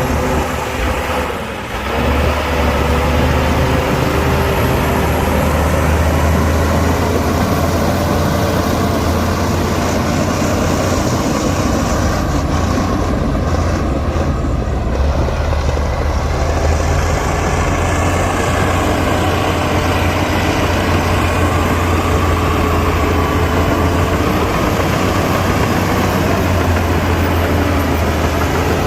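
Diesel engine of heavy earthmoving machinery running steadily under load, a deep low rumble with its pitch wavering slightly as it works.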